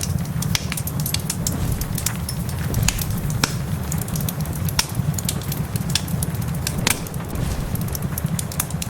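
Wood fire crackling in a fireplace: irregular sharp pops, several a second, with louder snaps about three and a half and seven seconds in, over a steady low rumble.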